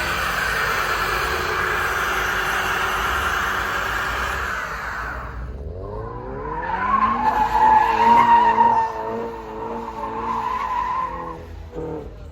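Car tyres squealing through a burnout with the engine at high revs. A first run of tyre noise fades out about five seconds in. Then an engine revs up with a rising pitch and holds high, wavering, under a loud tyre squeal that peaks at the loudest point before cutting off near the end.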